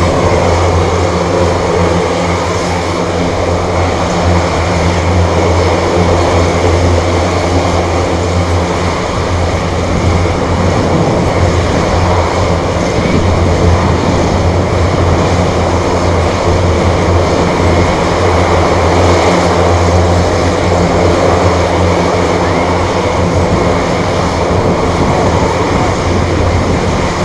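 Military aircraft engines running steadily: a loud, constant drone with steady humming tones that neither rise nor fall.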